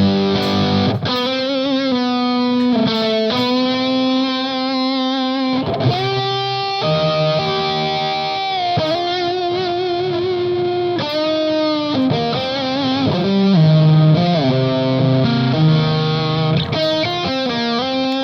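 Electric guitar played through an EarthQuaker Devices Palisades overdrive on its Gain B channel with the volume knob turned all the way up, giving thick, compressed, heavily distorted tone. Sustained single notes and short lead phrases ring out with vibrato and bends.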